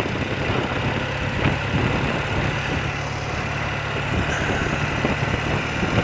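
Engine of a 30-year-old BMW motorcycle running steadily.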